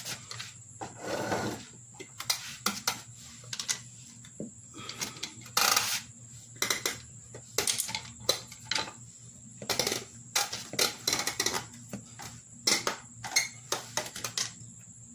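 Irregular metallic clicks, clinks and knocks from hands and tools working a riding lawnmower tire and inner tube onto its metal wheel rim.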